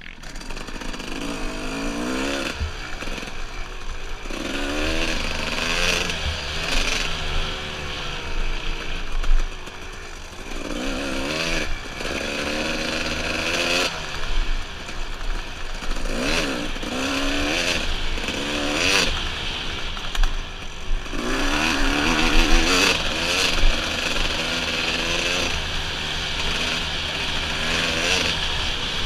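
Dirt bike engine on a trail ride, revving up and falling back again and again every few seconds as the throttle opens and closes, over a steady rushing noise, with a few sharp knocks.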